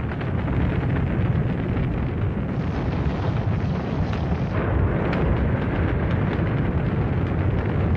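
Rocket launch: the engines give a steady, heavy rumble with crackle.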